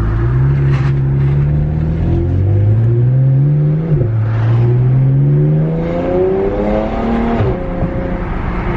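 BMW N54 twin-turbo inline-six accelerating hard through the gears, heard from inside the car: the engine note climbs, drops sharply at a quick dual-clutch gear change about four seconds in, climbs again and drops once more near the end.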